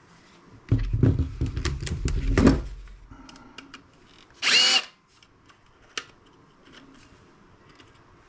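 Power drill/driver run in a burst of about two seconds, then a shorter, higher-pitched whir about four and a half seconds in, as the bit spins on a battery-pack screw without getting it out.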